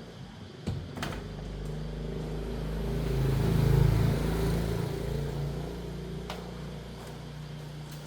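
A motor vehicle's engine hum swells to a peak about four seconds in and then fades, with a few sharp clicks about a second in and again past six seconds.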